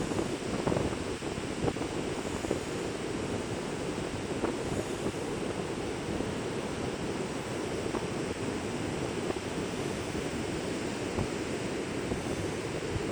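Loud wind buffeting the microphone, a steady low rumbling rush, with ocean surf washing underneath.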